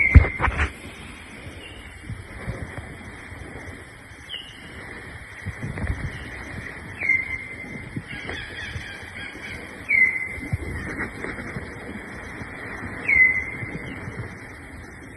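A bird calling again and again, each call a quick drop in pitch that settles into a short steady note, about every three seconds, over a steady hiss of forest background. A few low thumps at the very start.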